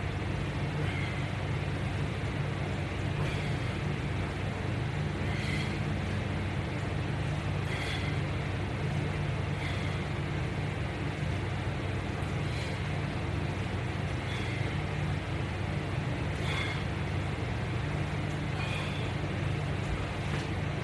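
Steady low hum with a faint short squeak about every two seconds.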